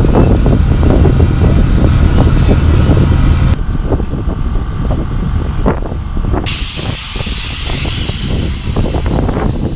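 Loud low rumble of wind on the microphone, then about two-thirds through a steady hiss like escaping air that lasts about three seconds.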